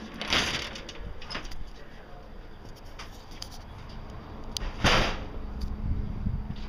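Two short, loud scrapes about four and a half seconds apart, the second the louder, with a few light knocks between them.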